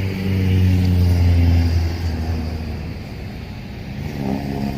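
A road vehicle's engine passing close by, loudest in the first two seconds and then fading away. Another engine grows louder near the end.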